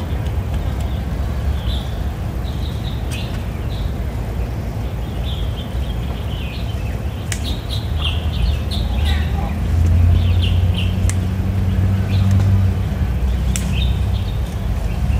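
Birds chirping in short, scattered calls over a steady low outdoor rumble that grows louder in the second half.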